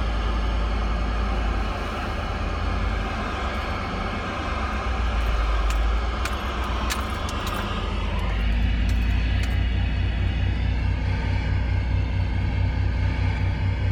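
Truck engine idling with a steady low rumble, heard from inside the cab, under the hiss of an open CB radio channel with a few crackles about five to seven seconds in. The rumble turns steadier and more evenly pulsed about eight seconds in.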